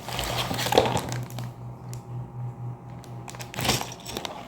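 Cardboard LEGO set box being torn open, the cardboard crackling and crumpling in a run of bursts over the first second and a half and again briefly near the end.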